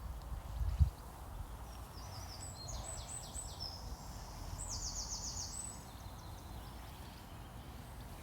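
A small songbird singing a few high, quick trilled phrases over a steady low outdoor rumble. A dull thump comes just under a second in.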